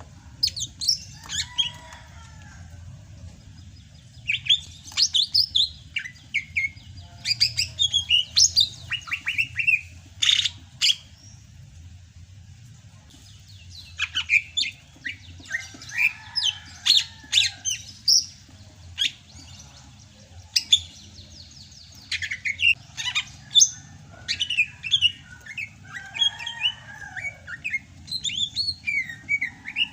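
Sumatran green leafbird (cucak hijau) singing hard: rapid runs of chirps, whistles and harsh notes in bursts, with a few short pauses, over a steady low hum.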